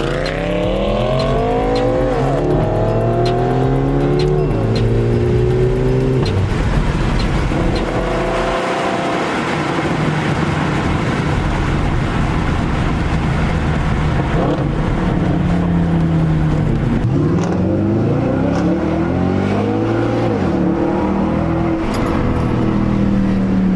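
Straight-piped Audi S5 4.2-litre V8 accelerating hard in repeated pulls, the exhaust note climbing in pitch through the revs and dropping back at each gear change, with steadier running in between.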